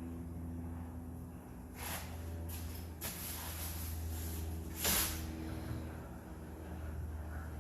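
Several short hissing sprays, one lasting about a second and a half and the loudest about five seconds in, over a steady low hum.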